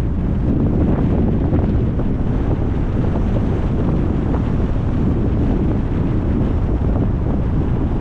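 Steady low rumble of wind buffeting the microphone and road noise from a moving car.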